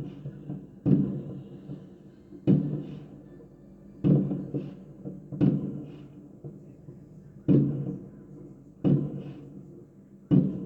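Firework shells bursting in the sky, about seven deep booms one to two seconds apart, each rumbling away with a fainter crackle just after.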